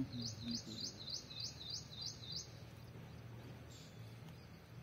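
A small bird calling a quick run of about seven high, rising chirps, roughly three a second, then one more after a pause, over a low steady hum. A short knock sounds right at the start.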